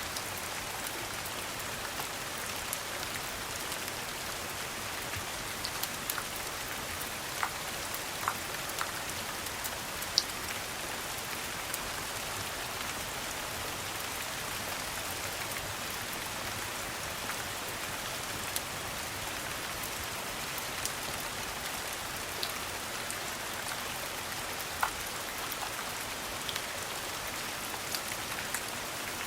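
Steady rain, an even hiss, with a few scattered sharp clicks and pops, the loudest about ten seconds in.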